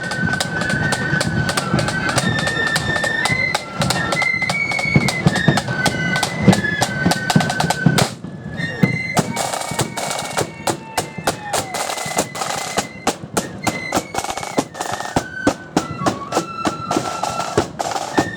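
Marching flute band playing a tune: massed flutes carry a high melody over snare drum rolls and a steady bass drum beat. The playing breaks off briefly about eight seconds in, then picks up again.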